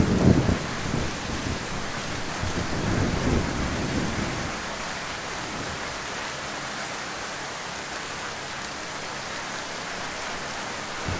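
Heavy rain falling as a steady hiss, with a low rumble in the first few seconds that dies away.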